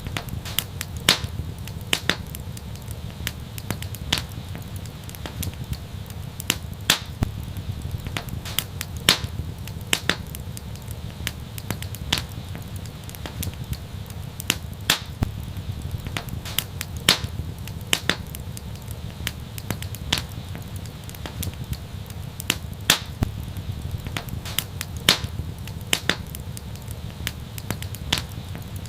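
Wood fire crackling: sharp, irregular pops and snaps, a few each second, over a steady low rumble of the flames.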